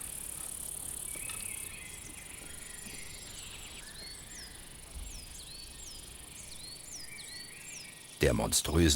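Summer forest ambience: a steady high buzz of crickets and insects, with a bird giving a run of short down-slurred whistles. A louder voice-like sound cuts in near the end.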